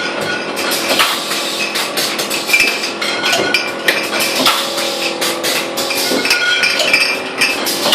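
Wine bottling line running: glass bottles clinking continuously against each other and the machinery, a dense clatter of clinks and knocks with short ringing tones.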